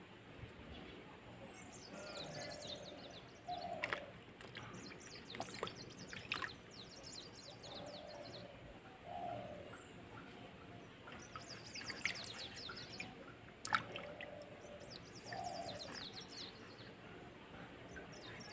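Small birds singing: repeated phrases of rapid high chirps, with lower repeated calls in between. A few sharp clicks stand out, loudest a little past halfway.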